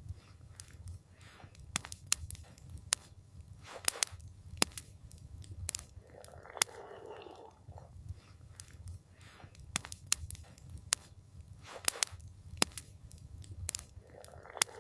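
Campfire crackling: irregular sharp pops and snaps of burning wood over a low steady rumble of the fire. A soft swell of noise comes near the middle and again near the end.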